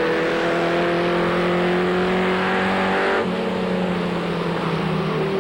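Race truck engine heard from an in-cab camera, running hard at steady revs, its pitch dropping slightly a little after three seconds in.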